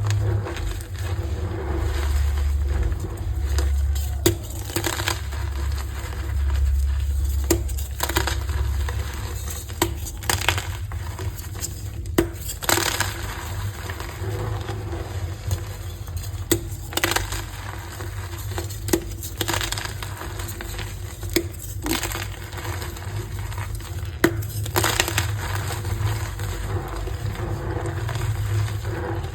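Blocks of re-formed gym chalk being crushed by hand: a continuous crisp crunching with irregular sharp snaps as pieces break.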